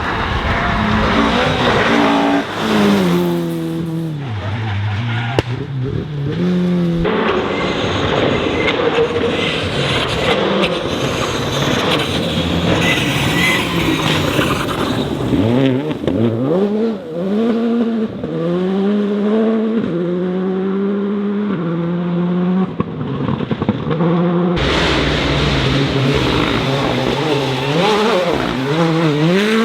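Rally cars driven hard on a stage, engines revving up and dropping back again and again through gear changes and lifts, with some tyre noise. The sound changes abruptly twice, as one car gives way to another.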